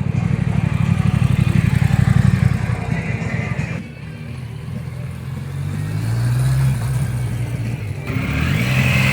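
Motorcycle engines running loudly. The first one's fast firing pulse drops away about four seconds in, then an engine note rises in pitch as a motorcycle accelerates.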